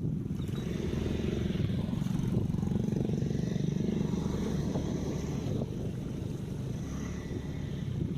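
Motorcycle engine running steadily under way, with a constant rumble and road noise from the ride.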